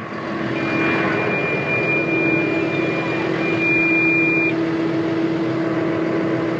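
Tractor engine running steadily, with a thin, steady high-pitched tone sounding over it for about four seconds from about half a second in.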